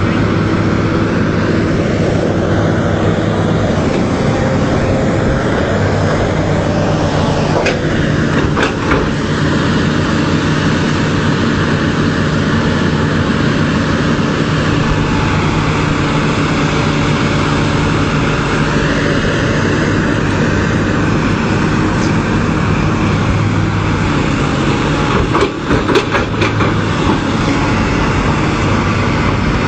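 A large vehicle engine running steadily, with a few sharp knocks or clicks about a third of the way in and again near the end.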